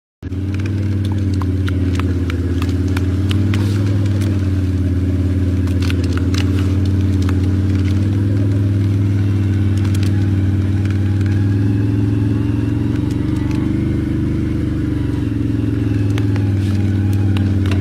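A motor or engine running steadily with an even hum, and scattered light clicks over it.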